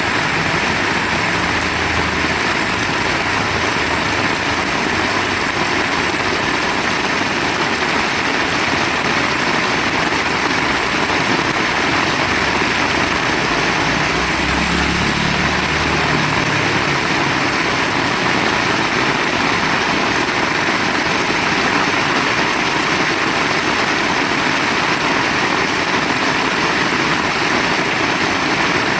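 Heavy rain falling steadily, a dense even hiss, with a brief low rumble about halfway through.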